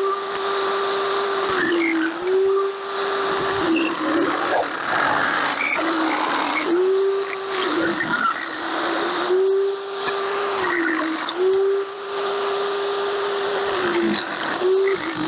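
Electric power tool running against sheet steel. Its motor's steady whine sags in pitch every second or two as it is pushed into the metal, then picks back up when the load comes off.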